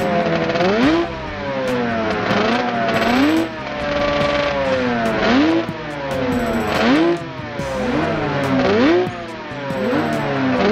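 A vehicle engine revved in repeated throttle blips, each a quick rise in pitch followed by a slower fall, about every one and a half to two seconds.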